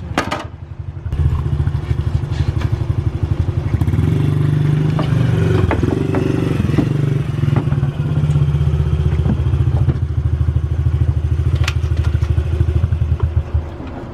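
A motor vehicle engine running steadily: a low drone with a fast pulsing beat. It starts about a second in and stops shortly before the end.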